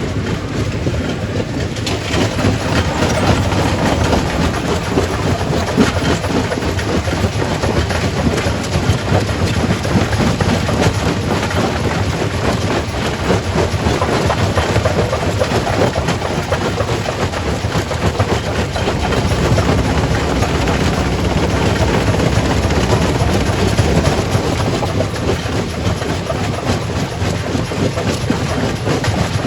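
Quarry primary rock crusher running under load, a steady heavy rumble with continuous clattering and knocking of stone being broken.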